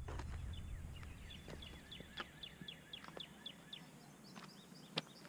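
A bird calling outdoors, a faint series of short downward-slurred notes repeated a few times a second. A low rumble fades out in the first second, and there is one sharp click near the end.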